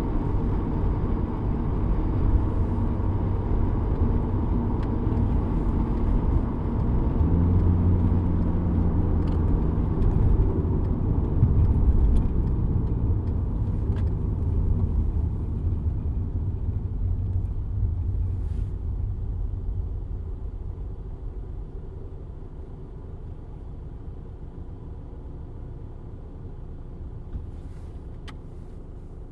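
Cabin sound of a 2007 VW Golf GT TDI with the 2.0 litre BKD diesel on the move. A low droning hum swells in about seven seconds in and holds for several seconds: the engine-speed-related vibration hum the owner is chasing, which he suspects comes from the dual-mass flywheel. Through the second half the running noise fades away steadily.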